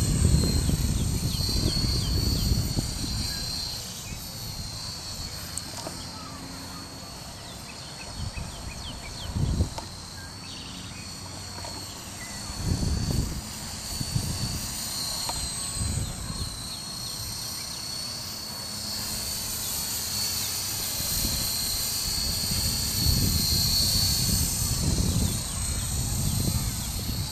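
Small electric RC helicopter with a brushless motor flying, its high whine wavering up and down in pitch as the throttle and rotor speed change. Gusts of wind rumble on the microphone now and then.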